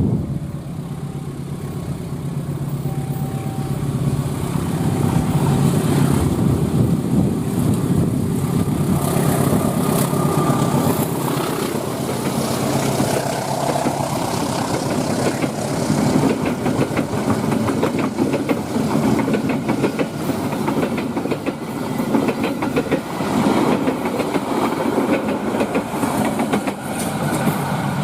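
A diesel-hauled passenger train passing close by. The locomotive's engine runs steadily at first, then the coaches rattle past with a rapid clatter of wheels over the rails that lasts to the end.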